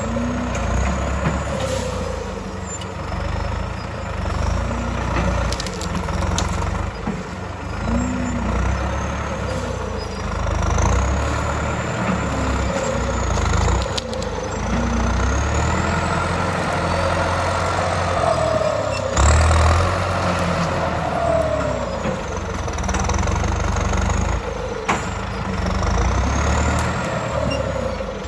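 John Deere 5076E tractor's four-cylinder turbo diesel engine working, its pitch rising and falling again and again as the load and revs change, with a brief louder surge about two-thirds of the way through.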